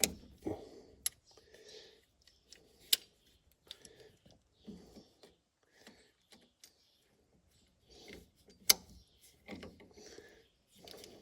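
Hand tools and a steel pin being worked by hand on combine linkage: scattered sharp metallic clicks and clinks, the loudest about three seconds in and again near nine seconds, with faint handling rustle between.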